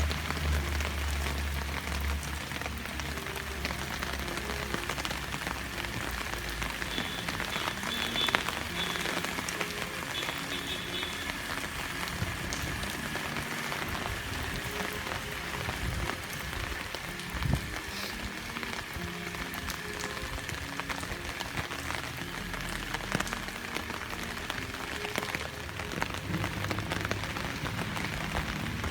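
Food sizzling steadily in hot oil, with background music.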